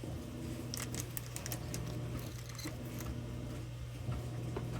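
Light clicks and taps from small shelf parts being handled and fitted, over a steady low hum.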